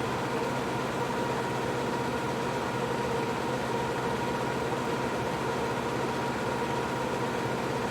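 Bambu P1S 3D printer running steadily: an even whir of fans with a faint constant hum.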